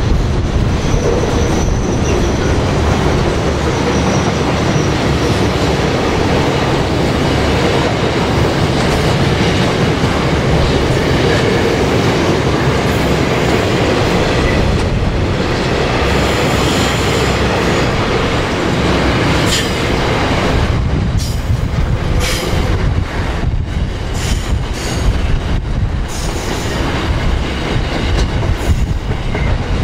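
A train rolling past with a steady rumble of wheels on rail. A thin high wheel squeal sounds in the first few seconds, and sharper clicks and knocks come in the second half.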